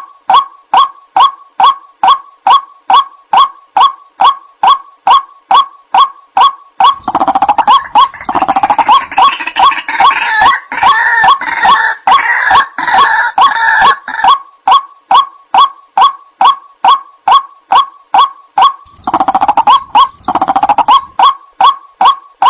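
White-breasted waterhen (ruak-ruak) calling: a steady run of short, repeated notes, about two and a half a second. A harsher, denser chatter of calls joins in about a third of the way through and lasts until past the middle, then returns briefly near the end.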